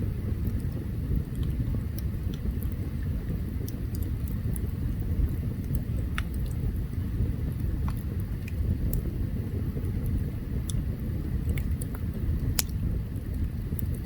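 Open wood campfire burning: a steady low rumble under irregular sharp crackles and pops, with one louder pop near the end.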